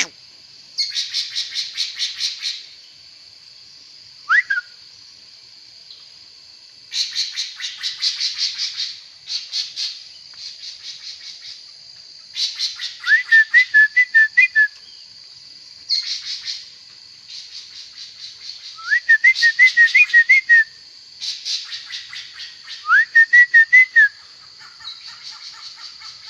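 A songbird sings in repeated bursts of fast, rattling chatter, each one to two seconds long. Three of the phrases end in a short warbled whistle, and one brief rising whistle stands on its own.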